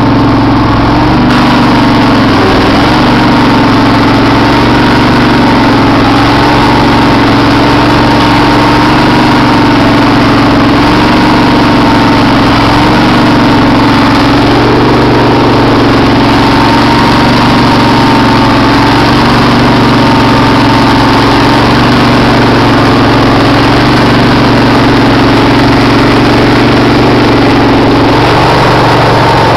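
Craftsman riding mower's engine running steadily and loud just after a cold start, throttle up and choke out.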